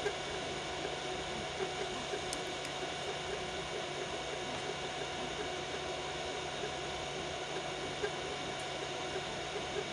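Biqu BX 3D printer running a print at 120 mm/s: a steady whir of its fans with a constant motor hum from the moving axes, and a few faint clicks.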